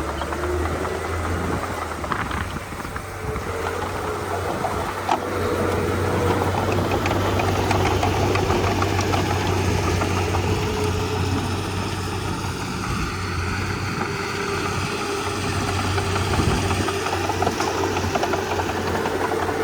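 Komatsu D31P bulldozer's diesel engine running steadily under work, with a few sharp clanks now and then.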